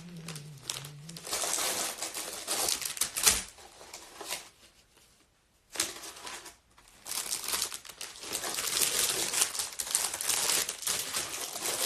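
Close rustling and crackling handling noise, many small crackles in quick succession, with a pause of near silence about five seconds in before the crackling resumes.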